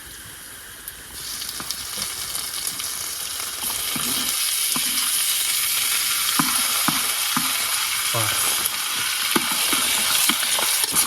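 Chopped tomatoes sizzling in hot oil in a frying pan with onions, green chillies and peanuts, stirred with scattered scrapes and clicks. The sizzle starts about a second in and grows louder.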